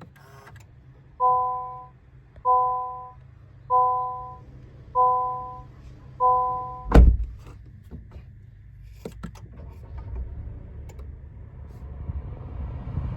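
Honda N-BOX warning chime sounding five times, a soft three-tone ding about every second and a quarter. A car door shuts with a heavy thump, then a few small clicks. The car's three-cylinder kei engine starts and runs with a low rumble that builds near the end.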